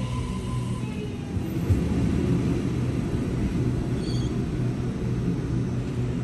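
Electric passenger train running through the station with a steady low rumble. Its motor whine falls in pitch and fades about a second in, and a short high-pitched note sounds about four seconds in.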